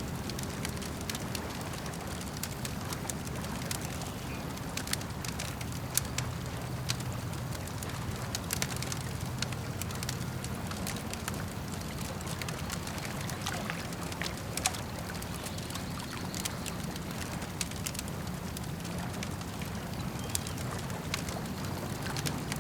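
Campfire crackling with scattered sharp pops, a few louder than the rest, over a steady low wash of lake water lapping.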